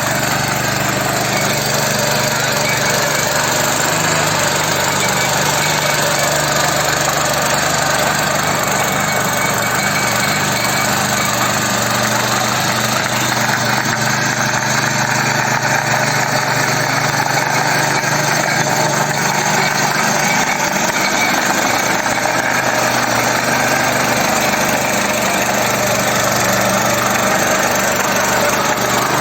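Small 7.75 HP engine of a mini power tiller running steadily.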